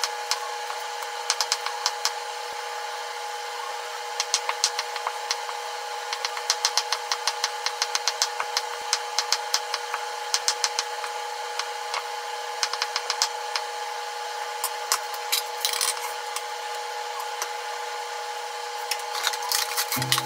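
Kitchen knife julienning a zucchini on a wooden cutting board: quick runs of crisp taps as the blade strikes the board, in bursts with short pauses between. A steady hum runs underneath.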